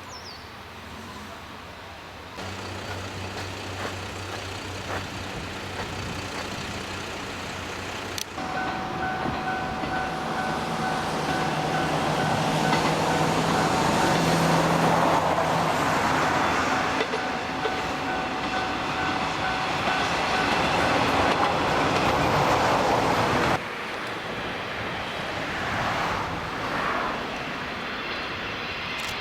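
JR Shikoku KiHa 32 diesel railcar running on the line, engine and wheels on the rails, in several short takes joined by abrupt cuts. It is loudest in the middle stretch, where a steady high tone runs alongside the train noise.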